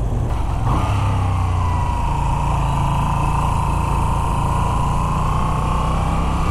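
Moto Guzzi V7 III Stone's air-cooled transverse V-twin running at a steady pace under way, with wind noise on the microphone and a steady whine that comes in about a second in.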